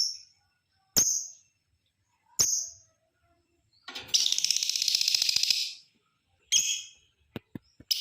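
Lovebird calling: sharp high chirps about once a second, then a long, rapid chattering trill (the 'ngekek' call) lasting nearly two seconds, another chirp, and two short clicks near the end.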